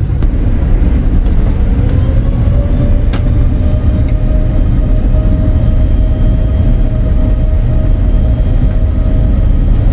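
Boeing 787-8 airliner noise heard from inside the cabin: a loud, steady low rumble with a tone that rises about two seconds in and then holds steady.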